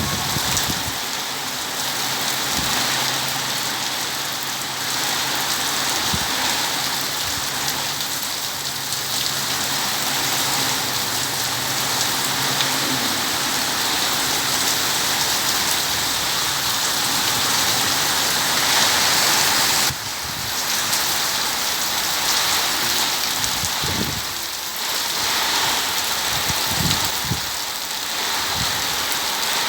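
Heavy tropical-storm rain pouring steadily, driven by strong gusting wind, with a few low rumbling swells of wind near the end.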